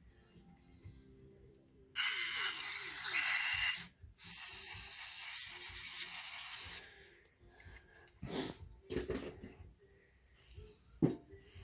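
Aerosol carburetor cleaner spraying in two long hisses, the second longer, each cutting off sharply. A few light clicks and knocks of parts being handled follow near the end.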